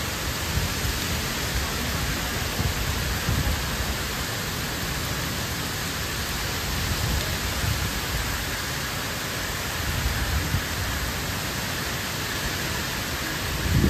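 Very heavy rain pouring down on trees, road and surfaces: a dense, steady hiss, with uneven low rumbles underneath.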